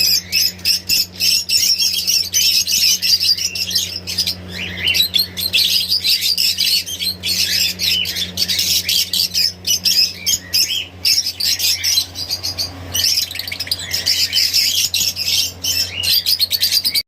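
A flock of parrots chirping and squawking together without pause, many calls overlapping, over a steady low hum.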